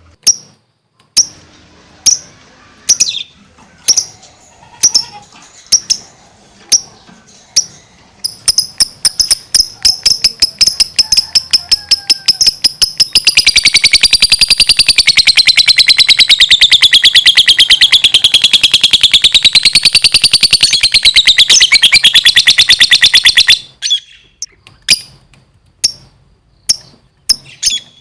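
Lovebird calling: sharp, high single chirps about once a second, then a quickening run of chirps about eight seconds in. This turns into a long, very rapid continuous chatter, wavering up and down in pitch for about ten seconds, which stops abruptly, followed by single chirps again.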